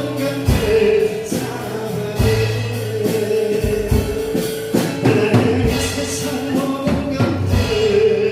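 Acoustic guitars strummed in a steady rhythm, with voices singing held notes over them.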